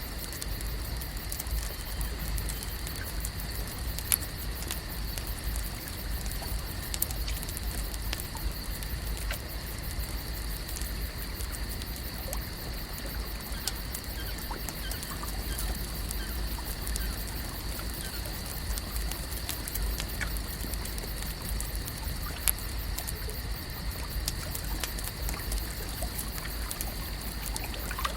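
Lake ambience: water lapping and trickling with many small scattered drips and clicks, over a steady high-pitched drone and a low rumble.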